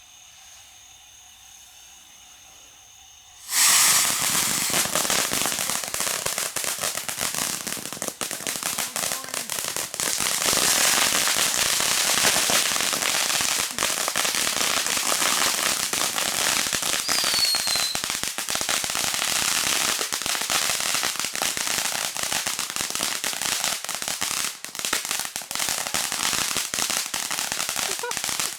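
Consumer fireworks on a homemade bicycle-wheel pinwheel going off: about three and a half seconds in they ignite suddenly into a loud, dense crackling hiss full of sharp pops, which keeps going.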